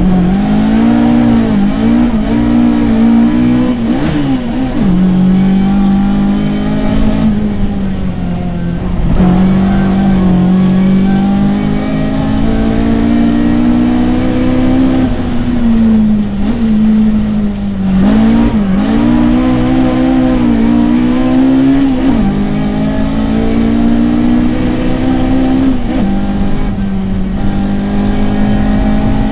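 Rally car engine heard from inside the cabin under hard driving. It keeps climbing in pitch and dropping back as the driver shifts gear and lifts for corners.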